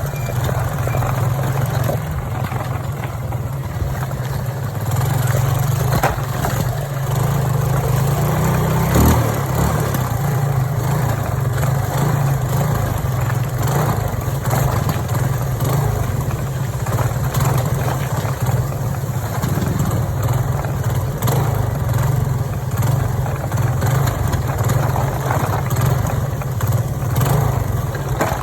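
Motorcycle engine running at a steady pitch throughout, under a constant noisy hiss, with a brief knock about nine seconds in.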